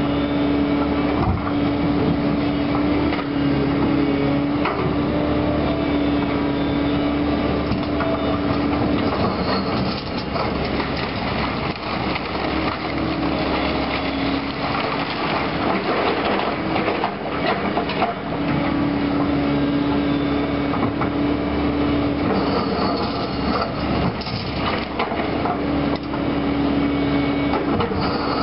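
A Caterpillar demolition machine at work: its engine runs under load while a hydraulic whine comes and goes several times. Debris scrapes and clatters throughout as the machine pulls apart and sorts demolition rubble.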